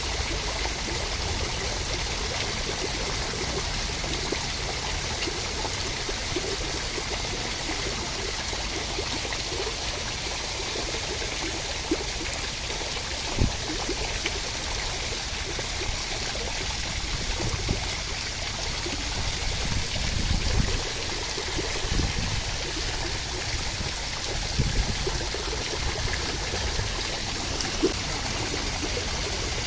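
Steady rain, an even hiss of falling water, with scattered louder low thuds of heavier drops through the second half.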